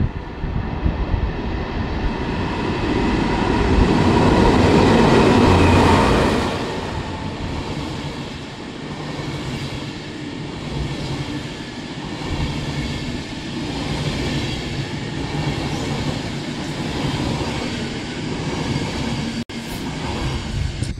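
Passenger train running through the station past the platform, loudest a few seconds in as the front goes by, then a steady rumble of coaches rolling past. The sound drops out for an instant near the end.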